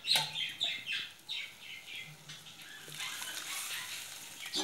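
A bird calling in a quick run of short chirps, each falling in pitch, over the first two seconds or so, followed by a softer steady hiss.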